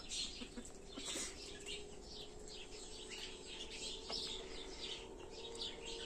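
Small birds chirping, many short high-pitched chirps repeating a few times a second, over a faint steady hum.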